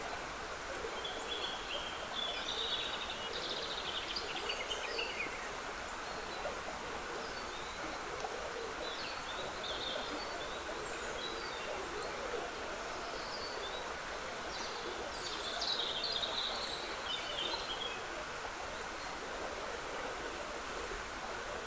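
Woodland stream trickling steadily, with songbirds singing in short bursts over it: a first run of song about a second in, more around the middle, and the loudest run near the end.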